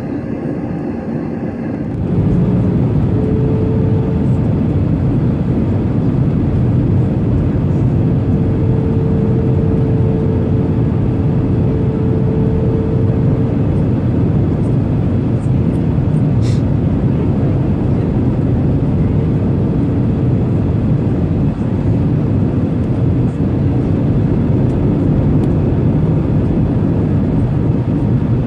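Steady low rumble of a jet airliner heard from inside the cabin, with a faint steady hum over it; it grows louder about two seconds in and then holds.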